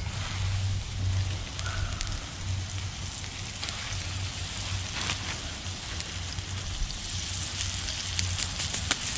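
Floured muskrat pieces sizzling and crackling as they are laid into hot oil in a cast iron skillet. The sizzle grows louder near the end as more pieces go in.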